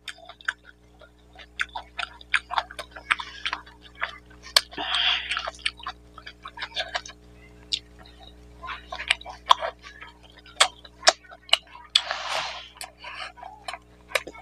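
Close-miked mouth sounds of a man eating rice and mutton curry by hand: many quick, wet clicks and smacks of chewing, with a longer, noisier slurp about five seconds in and again about twelve seconds in.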